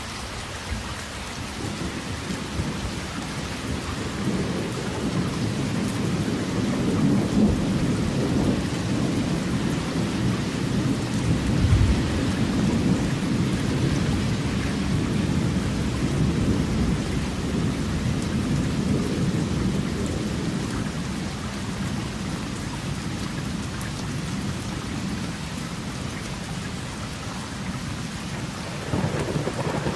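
Steady rain with rolling thunder. A low rumble swells over the first few seconds and is loudest around the middle, with a sharp crack about twelve seconds in. It then eases off and builds again near the end.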